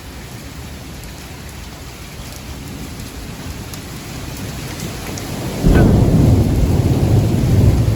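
Steady heavy rain falling, slowly growing louder, then thunder breaks in suddenly about six seconds in and rumbles loudly.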